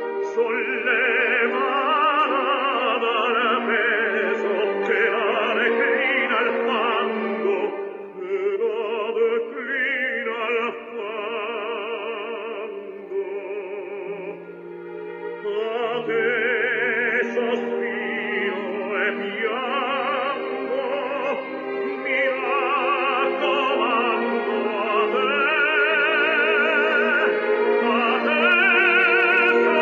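Classically trained solo voice singing an art song in operatic style, with a wide vibrato on its held notes, over instrumental accompaniment.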